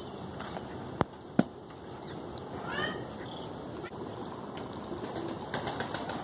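Outdoor yard ambience with a few short bird calls near the middle, and two sharp knocks about a second in.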